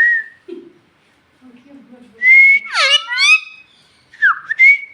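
Pet talking parrot whistling: a clear whistle about two seconds in breaks into several quick sweeping glides. Near the end comes a second whistle that dips and then rises.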